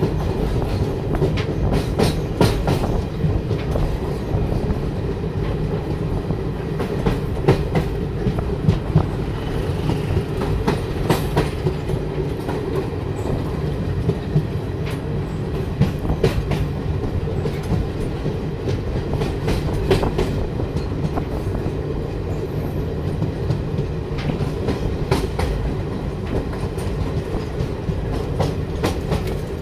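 Train running across a bridge, heard from aboard: a steady low rumble of wheels on rails, with irregular clusters of clickety-clack clicks as the wheels pass over rail joints.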